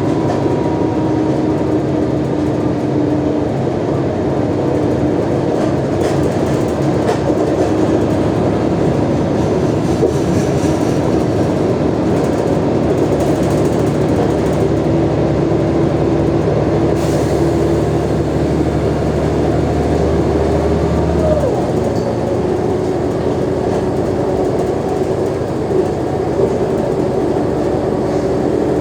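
Mercedes-Benz O345G articulated city bus driving along, its engine and drivetrain giving a loud steady drone with rattles and light knocks. Its worn state can be heard. The low engine note drops away about 21 seconds in.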